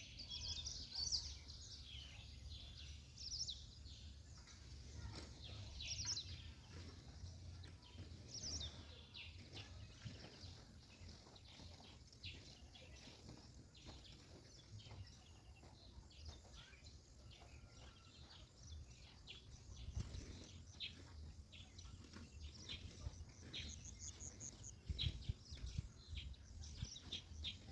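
Faint outdoor ambience of birds chirping and calling in short repeated notes, over a steady low rumble.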